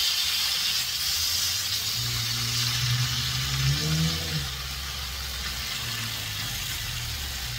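Food frying in hot oil, a steady sizzling hiss. A low hum swells under it and briefly rises in pitch about four seconds in.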